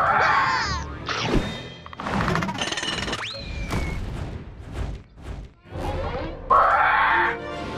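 Cartoon soundtrack of music with slapstick sound effects: thuds and crashes, a short cry early on, and a quick whistle-like glide that rises and falls back about three seconds in.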